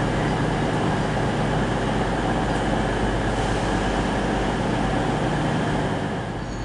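Diesel multiple unit running past on the station lines, a steady engine drone with rail noise that eases slightly near the end.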